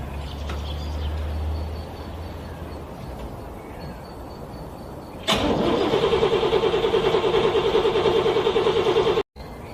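Car engine cranking over on its starter in freezing cold, an even rhythmic chug of about five pulses a second that starts suddenly about halfway through. It cuts off abruptly near the end without the engine catching and running. Before the cranking there is a quieter low hum.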